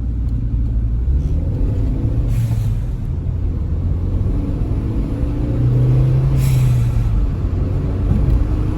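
2014 Hyundai Veloster Turbo's turbocharged 1.6-litre four-cylinder engine pulling the car along the road, its pitch rising twice as it accelerates, with a short hiss about two and a half seconds in and again about six and a half seconds in. The car is being driven with new ignition coils, to check whether the misfire on cylinders 1 and 3 has been cured.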